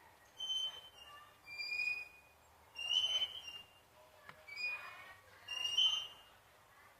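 About five short bouts of high, whistle-like chirps, roughly a second apart.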